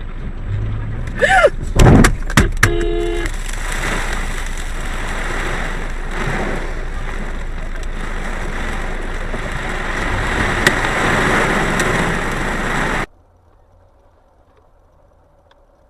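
Vehicle crash: a few loud sharp bangs about two seconds in, then steady road and engine noise that cuts off abruptly near the end.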